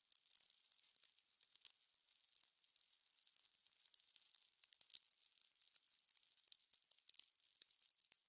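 Fire crackling: a light hiss with an irregular, continual scatter of sharp pops and snaps.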